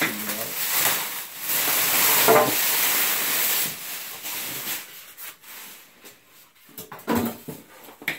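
Cardboard packaging scraping and rustling as the box is worked off a washing machine, loudest for the first few seconds, then quieter with a few short knocks near the end.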